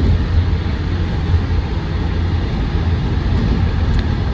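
Land Rover Defender 110 TD5's five-cylinder turbodiesel and road noise heard from inside the cab on the move: a steady low rumble.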